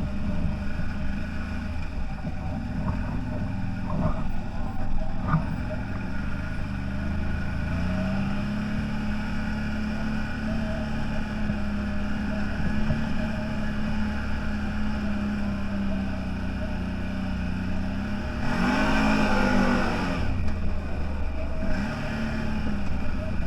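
Off-road vehicle engine running steadily, with a louder surge about three quarters of the way in where the engine pitch rises and falls for a second or two.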